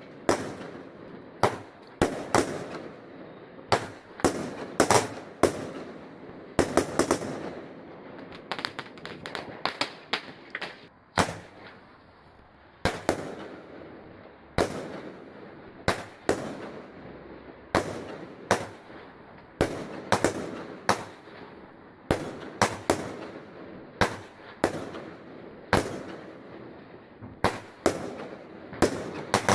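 Fireworks going off: a long run of irregular sharp bangs, about one a second and sometimes in quick pairs, each trailing off into a rumbling echo. There is a brief lull a little before the middle.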